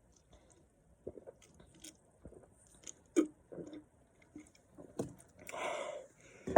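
Mouth and throat sounds of a person chugging a can of Monster energy drink: scattered small clicks and swallows, with a longer noisy rush about five and a half seconds in.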